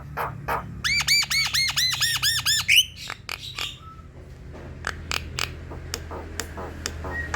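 Javan myna (jalak kebo) singing: a run of sharp clicking chatter notes, broken by a fast series of about eight repeated arched whistled notes from about one second in to nearly three seconds.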